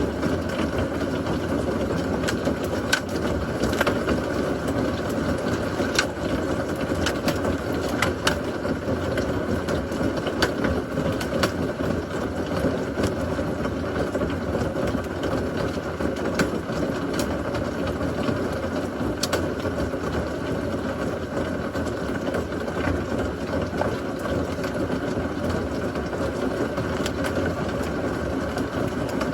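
Heavy rain falling steadily during a severe thunderstorm, a dense hiss sprinkled with sharp ticks of drops striking something close by.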